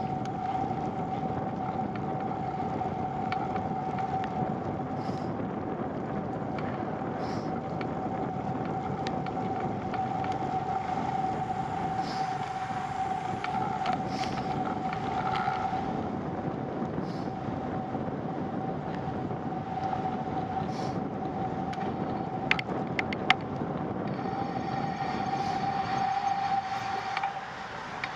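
Bicycle riding on wet asphalt: steady tyre and wind rumble with a thin, steady whine running under it, and a few sharp clicks a little over 20 seconds in.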